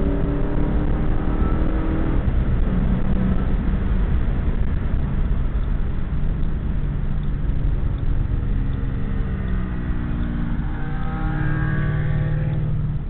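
2009 Ford Mustang GT's 4.6-litre V8 with long-tube headers under hard acceleration. The revs climb, drop at a gearshift about two seconds in, run on, then climb again near the end before easing off.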